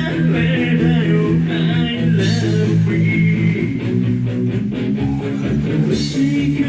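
A live rock band playing: electric guitar and bass guitar over drums, with a cymbal keeping a steady beat of about two hits a second.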